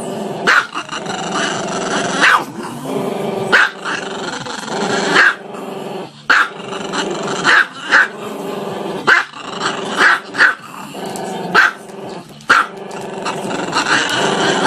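A small dog vocalizing with its head raised: drawn-out, pitched howling and grumbling, broken by about a dozen short, sharp barks spaced roughly a second apart.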